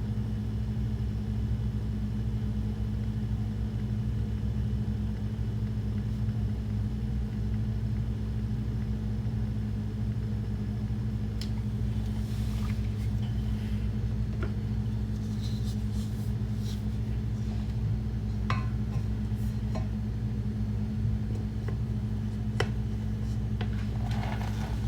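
Steady low machine hum, with scattered light clicks and taps from about halfway through.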